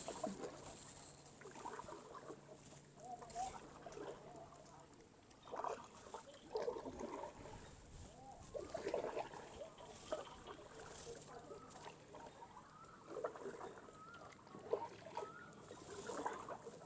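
Kayak paddle strokes: the blade dipping and pulling through water at irregular intervals of a second or two, with water dripping and splashing.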